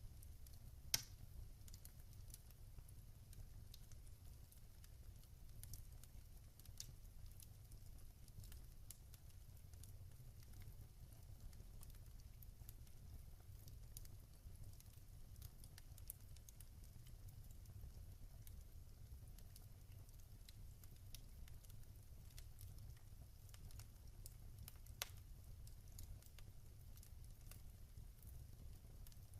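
Wood fire in a fireplace crackling softly: scattered small pops over a low, steady rumble, with a sharper pop about a second in and another late on.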